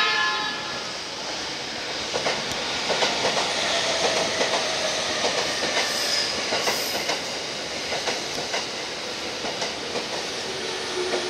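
JR E231 series 0 electric commuter train passing: a short horn blast ends about a second in, then a steady rumble with the wheels clicking over the rail joints as the cars go by.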